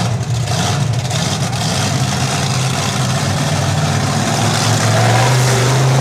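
Monster truck engine running steadily, then revving up with a rising pitch near the end.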